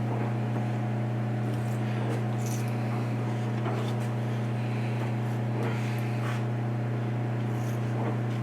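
A steady low machine hum holding one pitch throughout, with a few faint light clinks of metal work scattered over it.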